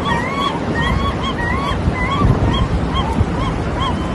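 A bird calling repeatedly in short, arched, honk-like notes, about three a second, over a steady low rush of noise.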